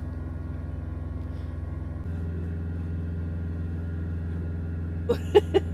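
Truck engine idling, a steady low hum that steps up slightly about two seconds in. Near the end come four or five quick, sharp clicks.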